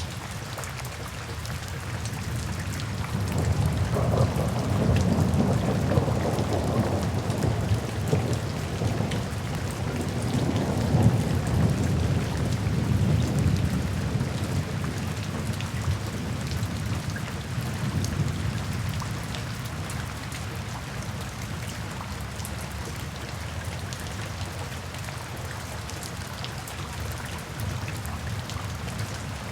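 Thunderstorm: steady rain with a long, low rumble of thunder that swells a few seconds in, peaks over the next ten seconds or so and fades out, leaving the rain.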